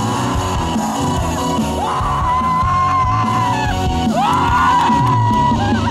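Live band with a singer belting long held notes with vibrato; one note is held from about two seconds in, and a second starts about four seconds in, over drums and bass.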